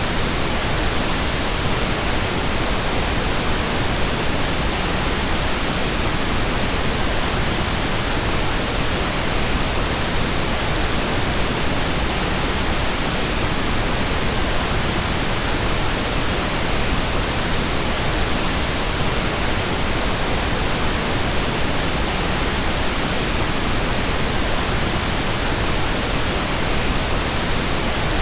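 Steady synthetic pink noise: an even, unchanging hiss spread across all frequencies.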